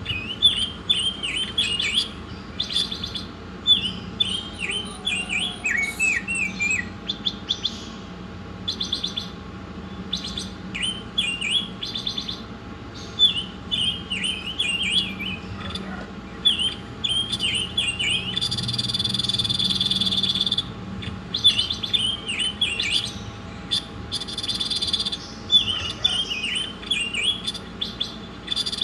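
A songbird singing in quick strings of short, high chirps, phrase after phrase with brief pauses. A steady high trill joins in for about two seconds around two-thirds of the way through.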